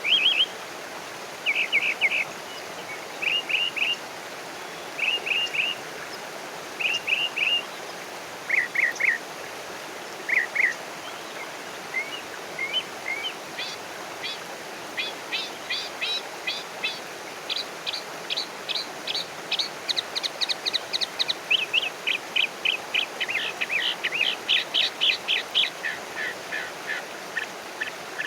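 Wild birds singing. For the first ten seconds or so a short phrase of two or three quick notes repeats about every second and a half, then from about twelve seconds in a faster run of rapid, high chirps takes over. A steady hiss lies underneath.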